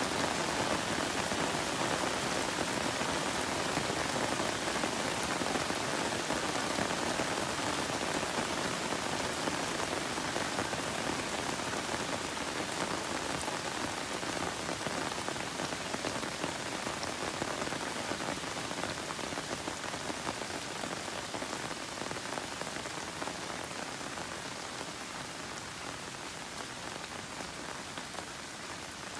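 Steady rain falling, an even patter of many drops with no distinct single hits, slowly easing off toward the end.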